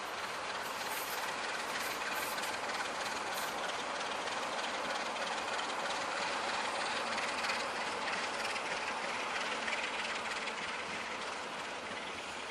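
Train hauled by a class DA diesel-electric locomotive rolling past: steady wheel-on-rail noise that swells slightly through the middle.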